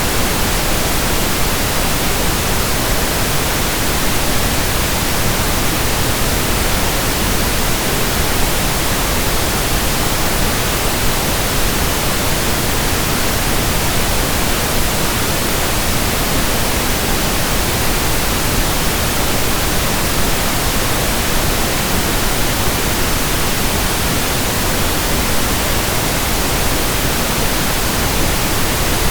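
Steady pink noise: an even, unchanging hiss spread across all pitches, with no rhythm or events.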